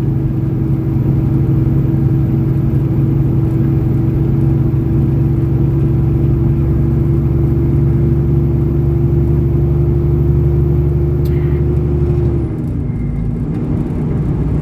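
Semi-truck engine and road drone heard from inside the cab while driving, a steady hum that drops in pitch and eases off slightly near the end. A single faint click comes just before the change.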